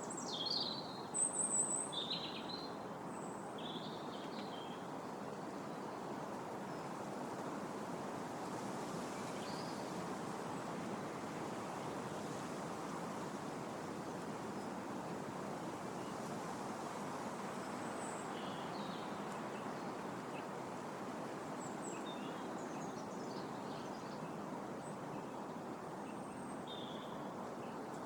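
Wind blowing steadily through trees, with birds chirping and singing over it: a burst of calls in the first couple of seconds, then scattered chirps.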